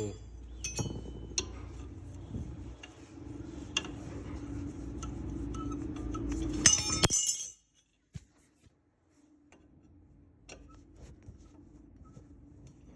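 Metal parts and tools clinking and tapping on a car's wheel assembly, over a steady low hum that stops suddenly about seven seconds in; fainter clicks follow.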